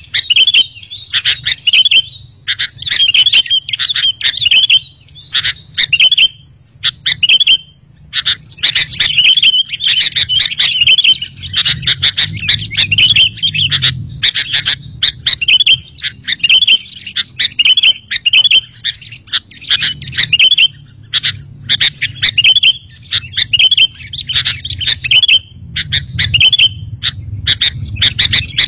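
Sooty-headed bulbul (kutilang) calling over and over: short, bubbly chirping phrases, about one or two a second.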